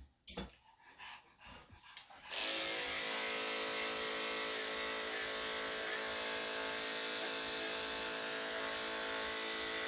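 A sharp knock just after the start, then electric dog grooming clippers fitted with a #7 blade switch on a little over two seconds in and run steadily.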